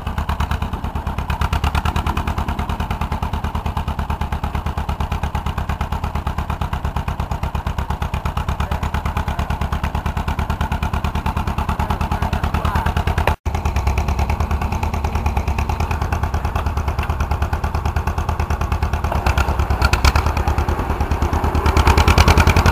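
Homemade tractor's engine running steadily with a rapid, even firing beat. It gets louder near the end.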